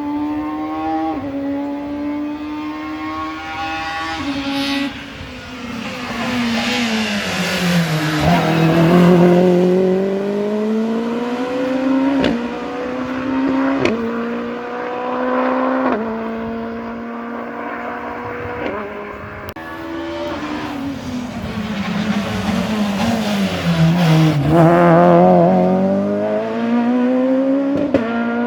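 Rally car engine at full attack, running up through the gears with quick, sharp upshifts. Twice the engine note falls away for a corner and then climbs again as the car pulls out.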